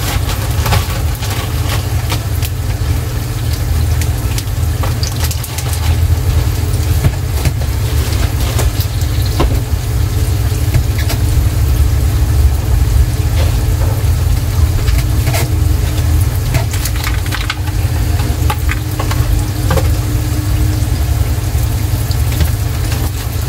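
Breaded green tomatoes frying, with scattered crackles and pops over a steady low rumble.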